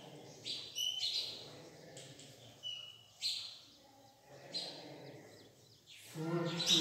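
Small birds chirping in short high calls, with chalk scratching on a blackboard as it writes. A man's voice starts near the end.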